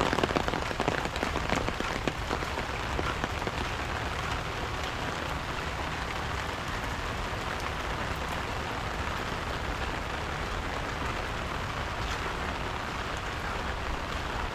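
Steady rain falling, a dense patter of drops, a little louder for the first couple of seconds.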